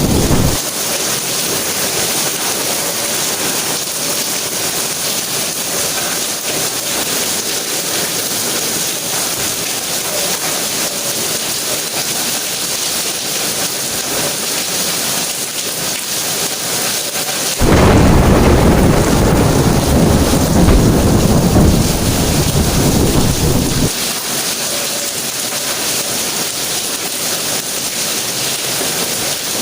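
Steady rain falling, with a low rumble of thunder in the second half that lasts about six seconds and starts and stops abruptly.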